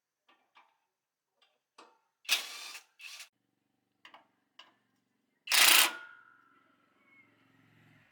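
Metal tools or parts being handled: a string of light clicks and knocks, two louder scraping clatters, then one loud metallic clank about five and a half seconds in that rings briefly as it fades.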